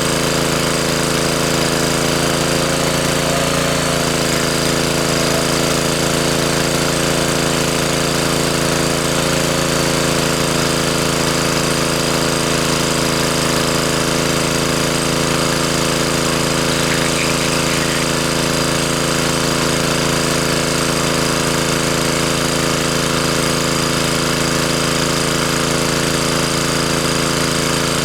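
A small engine running steadily at a constant speed, its pitch sagging briefly about three to four seconds in.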